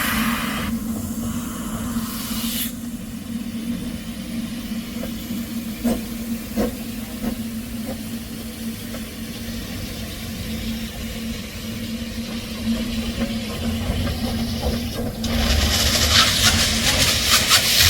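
Narrow-gauge steam locomotive standing with a steady low hum, letting off steam with a hiss for the first couple of seconds and again, louder and over a low rumble, near the end. A few light knocks come in between.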